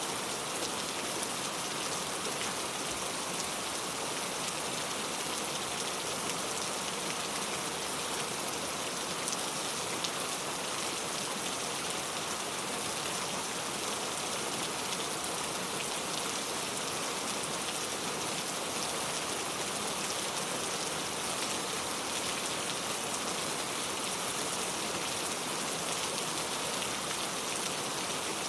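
Steady rainfall, a constant hiss of rain falling on surfaces with fine drop patter throughout.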